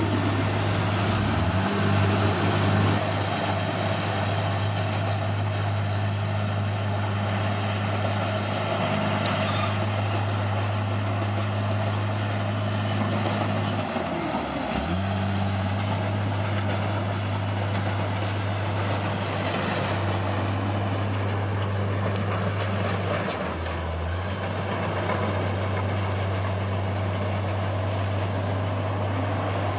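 Caterpillar D6R bulldozer's diesel engine running steadily at working revs. Its pitch dips briefly three times, about a second in, halfway through and at about three quarters, as the engine bogs down under load and recovers.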